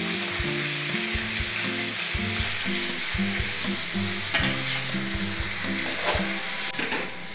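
Chicken pieces browning in hot mustard oil in a metal kadai, with a steady sizzle. A metal spatula stirs and scrapes against the pan, with a few sharper scrapes in the second half.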